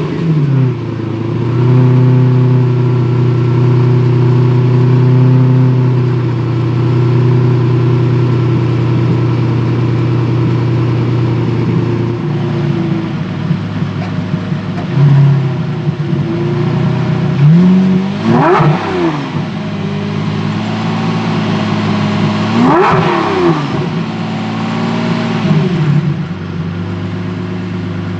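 Lamborghini Murciélago V12 with a Milltek exhaust idling fast just after start-up, settling to a lower idle about twelve seconds in. It is then blipped twice, about four seconds apart, each rev rising sharply and falling straight back to idle.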